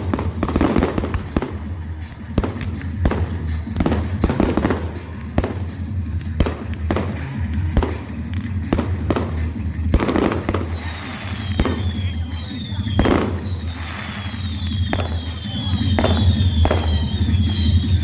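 Fireworks going off: a quick, irregular string of loud bangs and crackles. About two-thirds of the way through, high whistles start, each falling in pitch and repeating one after another.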